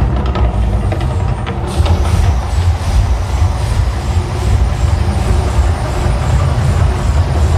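Deep, steady rumbling roar of the volcano show's eruption effects, loudest in the bass, played over large outdoor loudspeakers.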